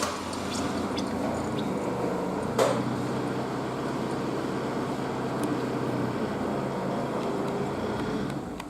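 Mercedes-Benz OM646 2.2 CDI four-cylinder diesel engine idling steadily, with a single sharp knock about two and a half seconds in. The level eases down a little near the end.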